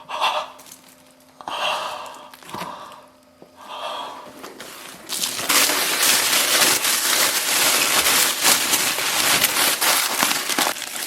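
Tin foil wrapped around the salmon being unwrapped and torn open: a few short rustles, then from about five seconds in a loud, continuous crinkling and crackling.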